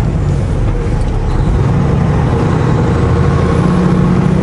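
Semi truck's diesel engine running steadily while driving slowly, heard from inside the cab with road noise.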